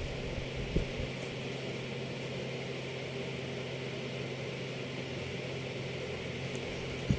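Steady low background hum with an even hiss, broken by a soft knock about a second in and another near the end.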